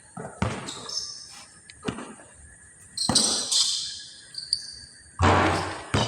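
Basketball game sounds: a ball bouncing and thudding on the court in scattered hits, with a louder bang about five seconds in.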